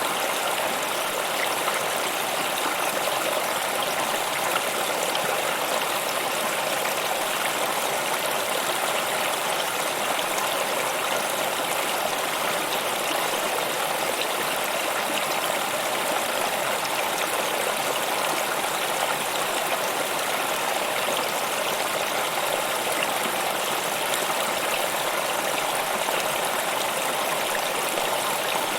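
Running water of a stream, a steady even rush with no change in level.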